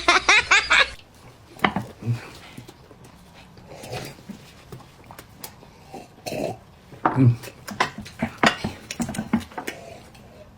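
Eating at a table: scattered chewing sounds with small clicks and knocks of chopsticks and dishes. A brief burst of voice comes at the very start.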